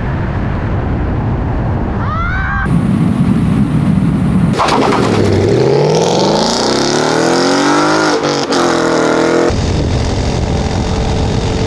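Electric motor of a modified 72 V Razor MX650 pit bike whining under a steady rushing noise, its pitch climbing as it speeds up and then dropping back. The sound changes abruptly several times.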